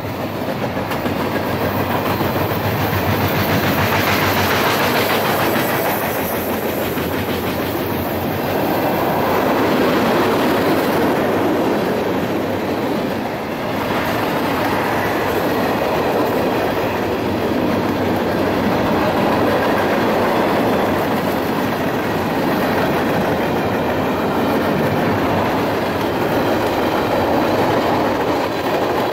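Freight cars of a passing mixed freight train rolling by at track speed: a steady, loud rumble and rattle of steel wheels on rail, with a brief dip in level about halfway through.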